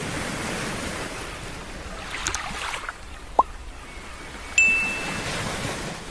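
A steady rushing noise with a few faint clicks, then a short rising blip, then a single bright chime that rings out and fades over about a second.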